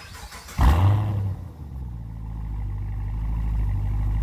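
2010 Camaro SS's 6.2-litre L99 V8 starting through a Borla ATAK cat-back exhaust: it catches with a loud flare about half a second in, then settles into a steady, deep idle.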